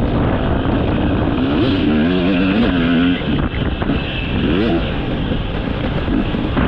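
Dirt bike engine revving up and down as it is ridden around a motocross track, its pitch rising and falling repeatedly, with a short drop in loudness just after three seconds as the throttle eases, and wind rushing over the microphone.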